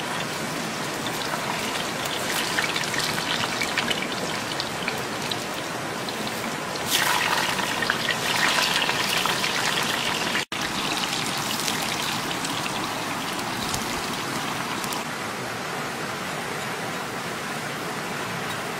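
Taro sticks frying in hot oil in a pan: a steady sizzle with fine crackling, louder for a few seconds around the middle.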